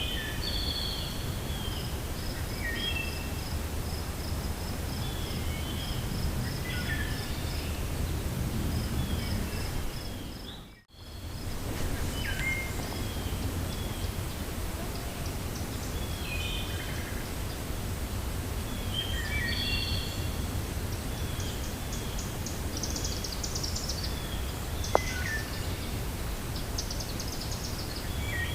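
Wind blowing through a forest with small birds chirping and calling over a steady low rush. Near the start one bird repeats a quick high note about three times a second for several seconds, and later there are short high trills. About a third of the way in, everything briefly fades out and comes back.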